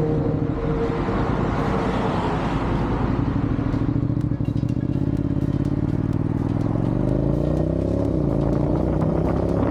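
Motorcycle engine running on the road with wind rush. Its pitch rises over the second half as the bike speeds up.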